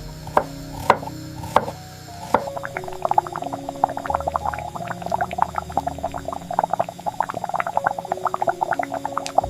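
Soft piano music with water drops falling over it: a few loud single drips in the first two seconds or so, then a quick, dense patter of many small drops.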